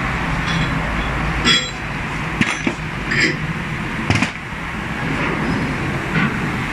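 Metal objects clinking and knocking, about five separate sharp strikes spread over a few seconds, over a steady low machine hum that stops about a second and a half in.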